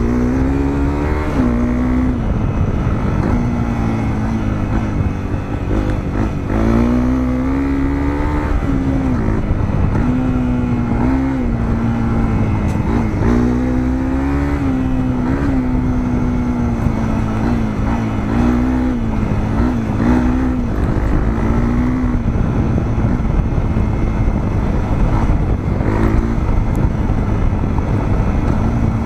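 Honda CRF250L's single-cylinder engine with a Moriwaki aftermarket muffler, under way. Its pitch climbs and drops again and again as the throttle is worked through the gears, over a steady low rumble, and runs more evenly in the last several seconds.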